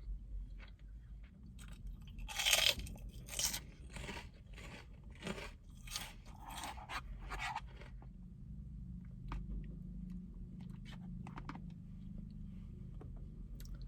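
Close-miked crunchy food being bitten and chewed: a run of about eight loud, sharp crunches, then softer chewing with a few small clicks. A low steady hum comes in about eight seconds in.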